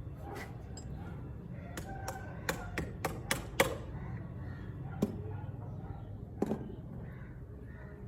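Sharp taps and knocks from work on a water pump: a quick run of about seven about two seconds in, then two single knocks, over a steady low hum.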